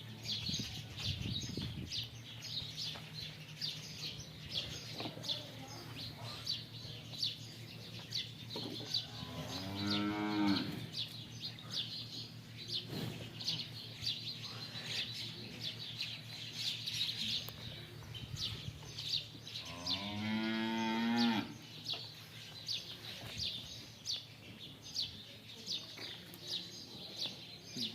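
Nili-Ravi water buffalo lowing twice, each a long call of about two seconds rising in pitch, with small birds chirping steadily throughout.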